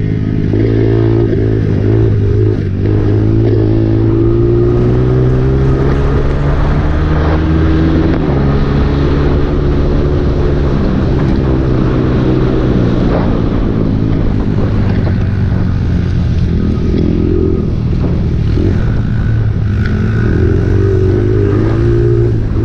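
Honda CRF dirt bike's four-stroke engine running hard, its pitch rising and falling over and over as the throttle opens and closes.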